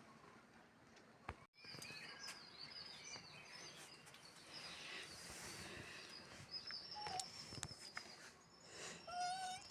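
Faint birdsong: small birds chirping in short, repeated high notes, with a single click a little over a second in and a short lower call near the end.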